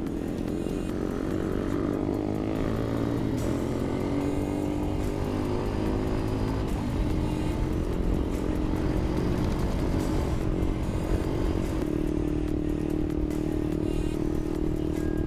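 Yamaha LC135's single-cylinder four-stroke engine running while riding, its revs climbing, dropping back about halfway through, then holding steady near the end, over a low rush of wind and road noise.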